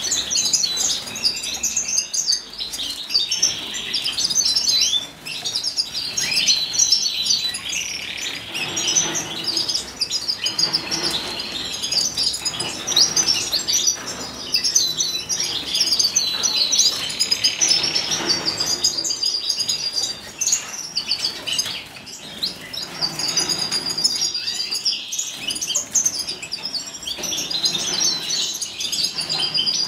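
Wild canary (Serinus canaria) singing a long, continuous song of rapid chirps and trills, with brief pauses about five seconds in and again past the twenty-second mark.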